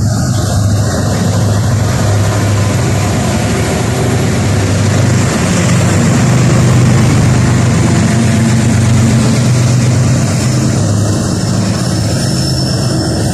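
Diesel locomotive engines of a freight train running close by: a steady low drone over a broad rumble that grows to its loudest about halfway through, then eases slightly.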